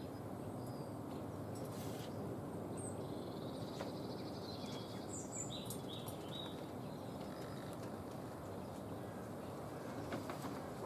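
A few faint, short chirps of small birds around the middle, over a steady outdoor background rumble.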